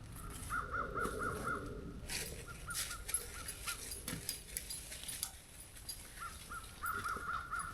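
A bird calling outdoors in three runs of quick repeated notes, about five a second, with a few faint knocks between them.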